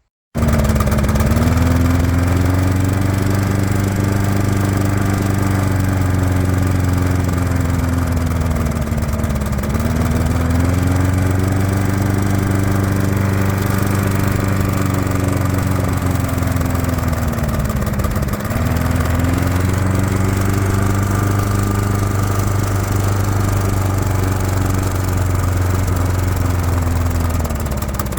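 Briggs and Stratton L-series engine on a Mountfield HP 470 lawn mower running and hunting: the revs rise and fall on their own in slow waves, about every nine seconds. The owner takes this hunting as the usual sign of a weakened carburettor gasket diaphragm, or of an engine due for a service.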